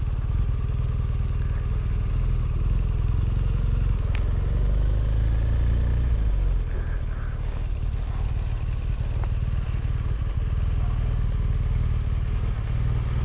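Motorcycle engine running at low revs, a steady low rumble.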